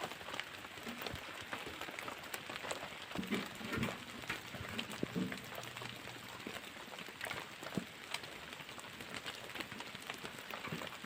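Rain falling in a forest: a steady hiss of rain with many small, scattered drop ticks.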